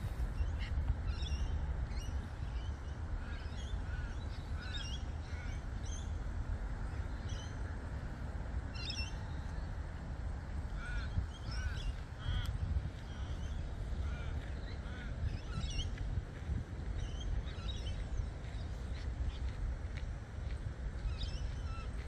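Wild birds calling with short, repeated chirps throughout, over a steady low rumble.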